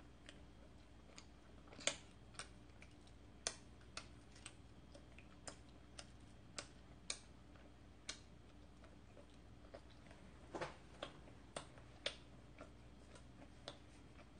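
Faint, irregular wet clicks and smacks of a mouth chewing soft condensed-milk baguette, about one or two a second, with a few coming close together about ten and a half seconds in.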